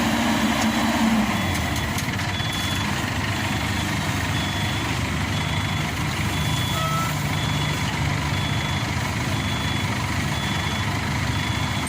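Heavy machine engine running steadily, its pitch dropping about a second in, while a reversing alarm beeps at an even pace, a little more than once a second, of the kind heard as the combine harvester backs up on or off the truck.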